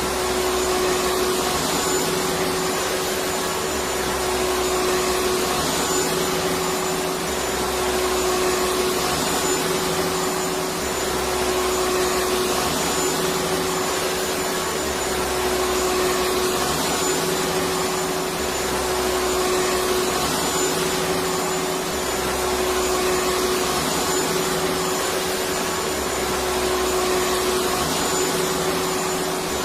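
Electric vacuum cleaner running steadily, a continuous whooshing motor noise with a steady whine, and a low rumble that swells and fades about every two seconds.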